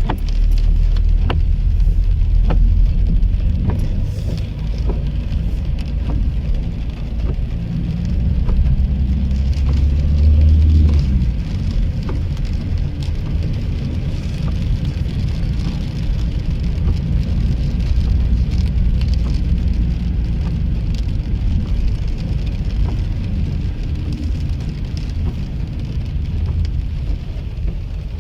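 Rain pattering on a car, heard from inside the moving car, with scattered drop ticks over a steady hiss and the low rumble of the car driving.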